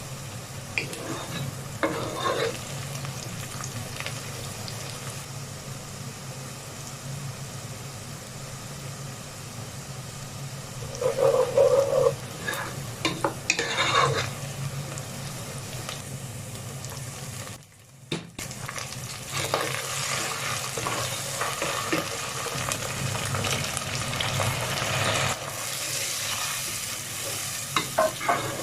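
Vegetables frying and sizzling in a pan while being stirred, with a few bursts of clattering and scraping from the spatula against the pan.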